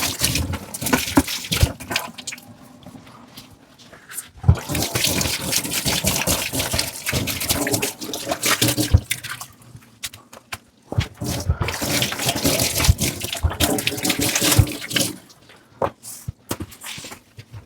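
Kitchen tap water running over dishes in a sink. The flow comes in stretches that start and stop, twice for a few seconds each, with clinks and knocks of dishes in between.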